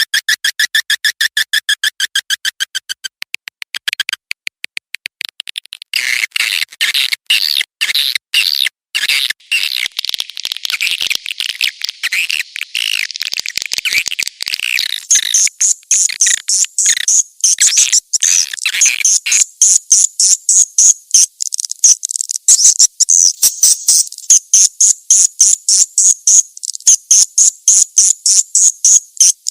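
Swiftlet lure call track: fast, repeated high chirping and twittering of swiftlets, the calling sound played to attract the birds. The pattern changes about six seconds in to a busier twitter, and from about halfway it turns higher-pitched and denser.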